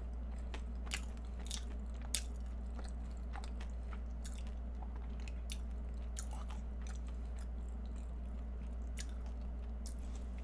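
Close-miked chewing of a flaky Portuguese-style egg tart: soft wet mouth sounds with scattered small clicks and crackles, a few sharper ones in the first two seconds. A steady low hum runs underneath.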